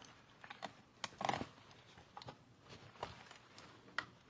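Faint small clicks and knocks of a 1960 transistor radio's case and parts being handled and fitted back together: a short cluster a little after a second in, then single clicks near three and four seconds.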